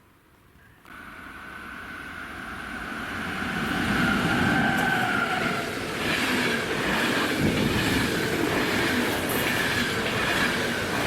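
Train passing close by: it cuts in about a second in and builds to a loud rush, with a wavering whine over the wheel noise, then a rhythmic clatter of wheels over the rails in the second half before it stops abruptly.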